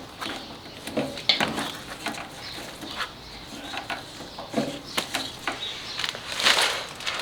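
Hand-work noises from fitting hoses and fasteners: scattered small clicks and knocks, with a few short scraping rasps.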